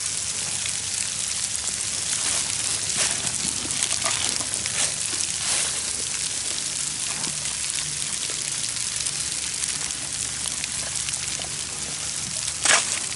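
Steady rain and sleet falling, an even hiss with a few scattered soft clicks and one sharper click near the end.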